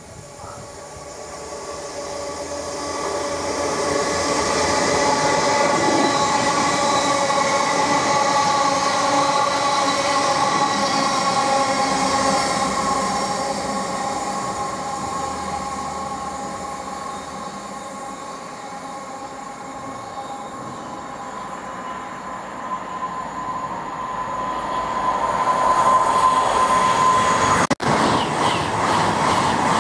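A train passing on the line. Its noise builds over a few seconds, holds with a steady whine over the rumble, then eases off. It builds again as more train noise comes up near the end, broken by a sudden instant of dropout.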